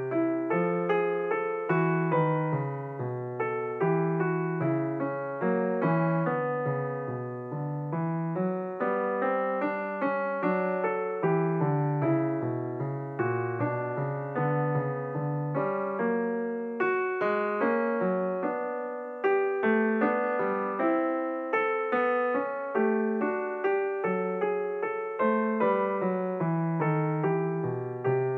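Background piano music: a steady flow of single notes and chords, each struck and fading.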